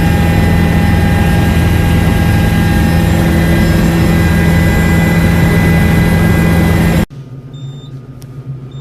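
Helicopter in flight, a loud steady engine and rotor drone with steady low tones. It cuts off abruptly about seven seconds in, leaving a much quieter low hum with a couple of short high beeps.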